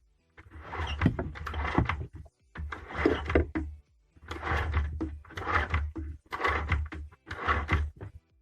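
SUPRA vacuum cleaner motor running with a low hum and a rushing noise, the sound coming and going in about seven bursts, each cut off sharply; the owner says this vacuum cleaner works weakly.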